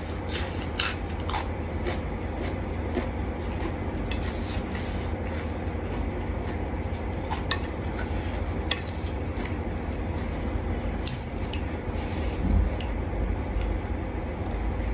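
Spoon or utensil clinking and scraping in a bowl as a spicy salad is mixed, with scattered light clicks over a steady low hum.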